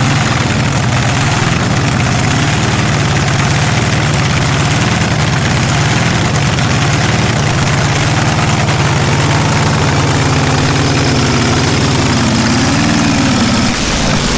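Loud drag-racing car engine idling steadily after being fired up for a cacklefest.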